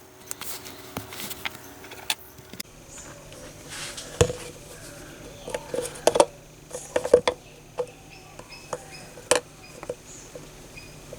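Irregular clicks and light knocks of small metal parts being handled and set down, some with a short metallic ring.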